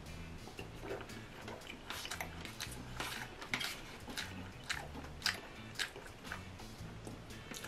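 Close-up eating sounds: wet chewing with many short mouth smacks and clicks as a person eats soft food, thickest and loudest in the middle seconds.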